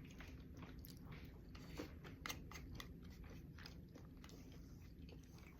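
Faint close-up chewing of food, with scattered small clicks and crunches.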